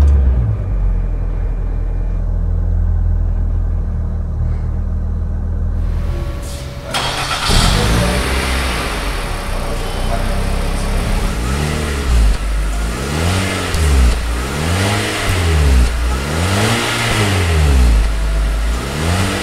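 Mitsubishi Outlander's engine idling, first muffled as heard from inside the cabin, then heard at the tailpipe. From about halfway through it is revved in about five short blips, rising and falling in pitch roughly every second and a half.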